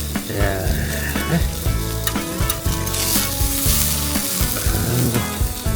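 Marinated pork neck sizzling on a grill over freshly made hardwood charcoal, the hiss swelling about three seconds in.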